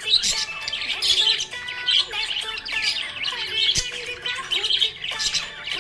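Budgerigar chirping and warbling, a fast, unbroken run of short chirps and squawks.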